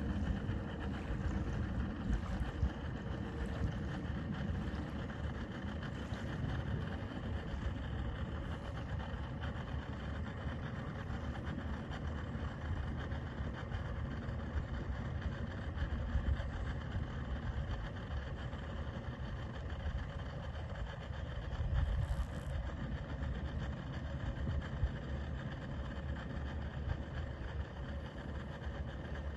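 Boat motor running steadily at low speed, a continuous low engine sound with no change in pace.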